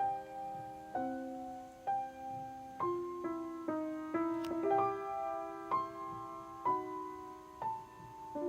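Slow, gentle piano music, with notes and chords struck roughly once a second.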